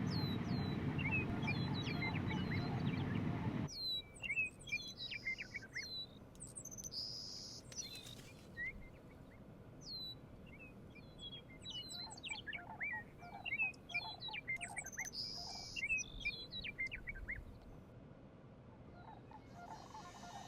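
Grassland songbirds singing: repeated high, falling chirps and short buzzy trills from several birds. A steady low rumble at the start cuts off suddenly about four seconds in.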